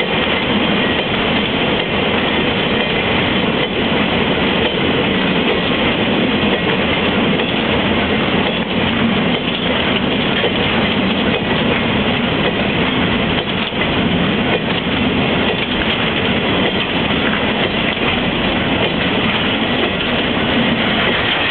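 A freight train of Wamu two-axle covered wagons rolling past close by. Its wheels rumble and clatter steadily over the rail joints.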